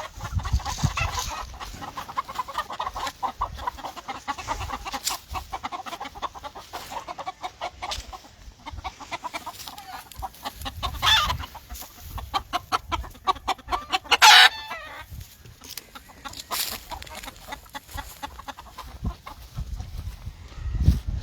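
Gamefowl chickens clucking in a rapid, continuous chatter, with one loud call from a bird about fourteen seconds in.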